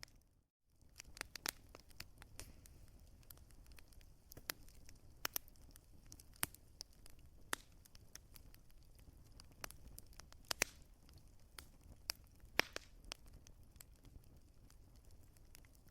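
Wood fire crackling and popping, with irregular sharp snaps over a low steady rumble. The sound cuts out for a moment about half a second in.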